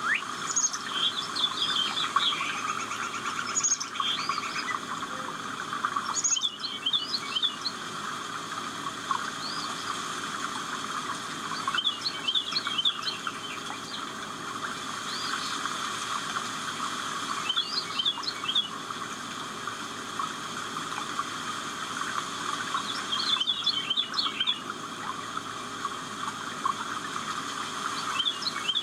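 Birds chirping and singing: short phrases of quick rising and falling notes that come back every few seconds, over a steady rushing background.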